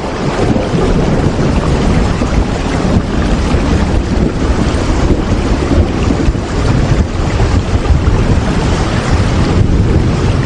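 Steady heavy rain ambience: a dense, even rush weighted toward a deep rumble, swelling and easing slightly without a break.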